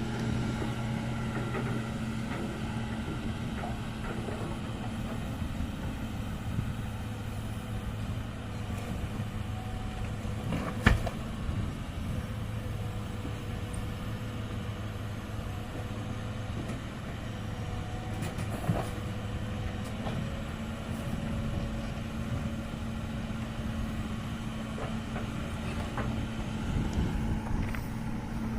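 Heavy diesel engine of earthmoving machinery running steadily. A sharp metallic knock comes about eleven seconds in, and a lighter one near nineteen seconds.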